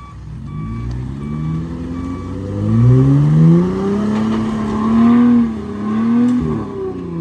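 Truck engine revving up and down under load during a recovery-rope pull on a vehicle stuck in the mud, rising and holding about three seconds in, easing off, then surging again near the end. A repeating beep, about twice a second, sounds in the first couple of seconds.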